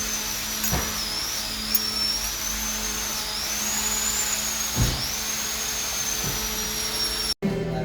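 A high-speed power tool running with a steady high whine that dips in pitch several times, as if briefly loaded, over a low hum and a few knocks. It cuts off abruptly near the end.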